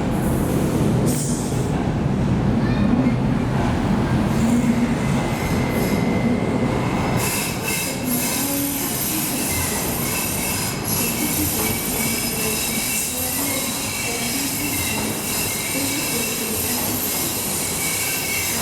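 A Docklands Light Railway train running on the rails with a steady rumble, louder at first; from about seven seconds in its wheels squeal with sustained high-pitched tones over the rumble.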